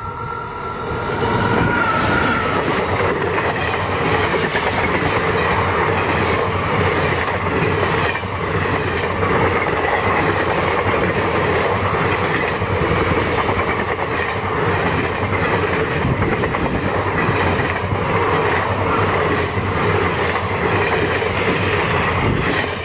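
A train running past on the rails, its wheels clattering continuously. The sound builds over the first couple of seconds, then stays loud and steady.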